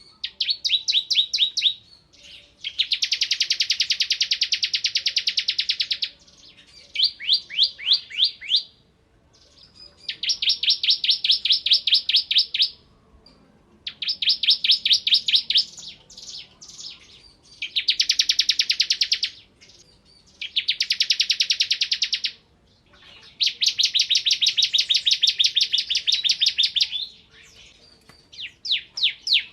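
Bar-winged prinia (ciblek) singing loudly in machine-gun-like phrases of very rapid, high repeated notes. About nine phrases come in quick succession, some under two seconds and some running three to four seconds, with short pauses between.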